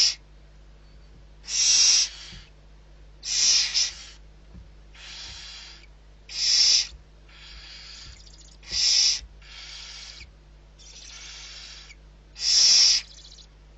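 Barn owl giving a series of harsh, hissing screeches, one about every one to two seconds, some loud and some softer.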